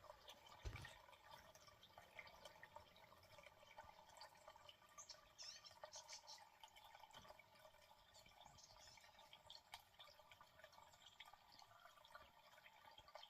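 Faint water trickling and dripping, with a soft low thump about a second in.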